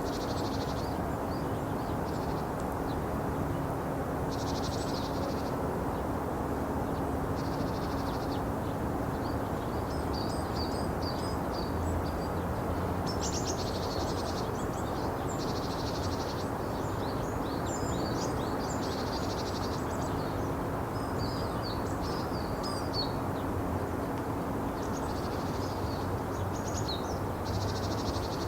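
Small birds chirping and twittering in thin, high, short notes, scattered through and busiest in the middle and near the end, over a steady low background rumble with a faint steady hum.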